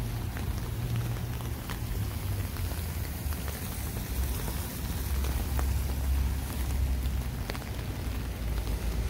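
Steady rain falling on wet city pavement, an even hiss with a few sharp drip ticks scattered through and a low steady rumble underneath.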